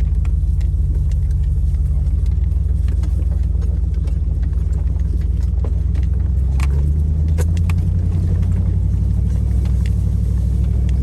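4x4 off-road vehicle driving slowly on a dirt trail: a steady low engine hum whose pitch rises a little about halfway through, with scattered clicks and knocks from the tyres and body over the trail.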